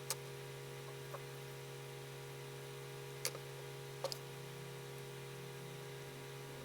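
Steady electrical hum with a few short, sharp light clicks: one near the start, one about three seconds in, and a quick double click about a second after that.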